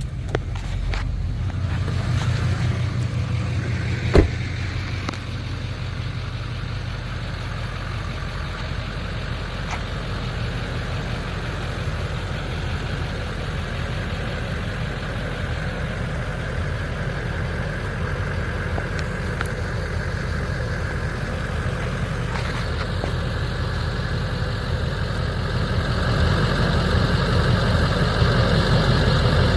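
2006 Chevrolet 3500 pickup's engine idling steadily, with a single sharp click about four seconds in; a little louder near the end.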